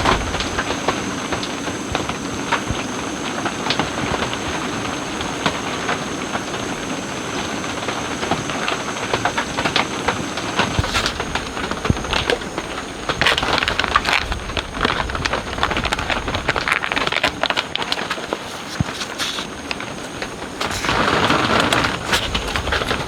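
Steady rushing noise of rain and flowing water, with many scattered drips and taps.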